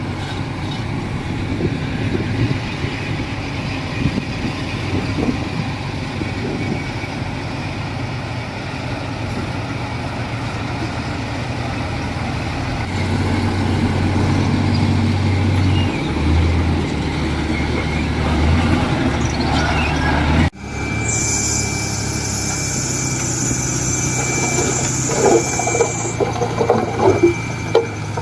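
Heavy diesel engine of earthmoving machinery running, its low pitch shifting up and down partway through. The sound breaks off abruptly about two-thirds in and resumes as engine noise with a high hiss over it.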